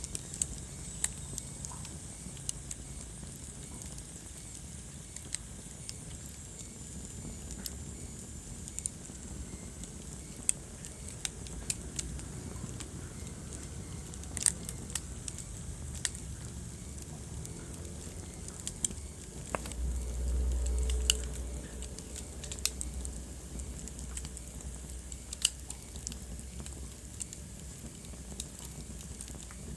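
Wood fire burning, with frequent sharp crackles and pops at irregular times over a low steady rumble of the flames. A short, louder low rumble rises and fades about two-thirds of the way through.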